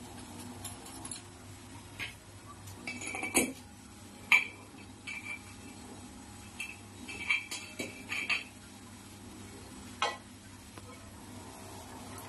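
Irregular light clinks and taps of metal and glass, about ten short strikes with a brief ring, over a faint steady background.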